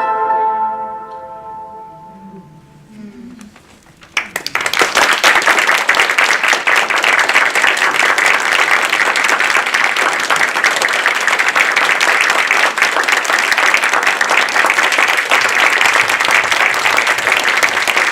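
The last notes of the music fade out, then an audience breaks into loud, steady applause about four seconds in.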